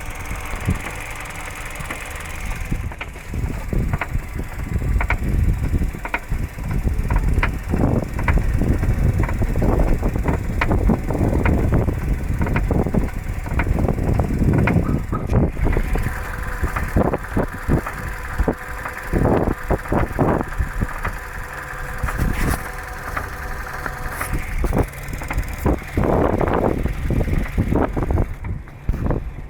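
Kia Ceed 2.0 automatic with a knocking fault: irregular sharp knocks over a low running rumble, with wind on the microphone.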